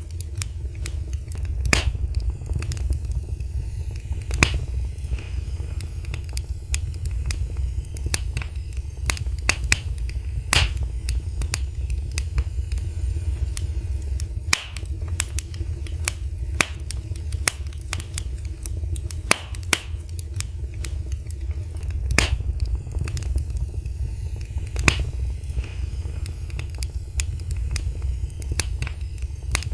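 Wood fire crackling in a fireplace: irregular sharp pops and snaps, several a second with a few louder cracks, over a steady low rumble.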